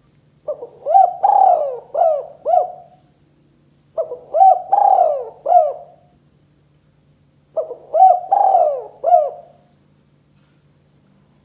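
Spotted dove cooing: three phrases of several short notes each, spaced about three and a half seconds apart.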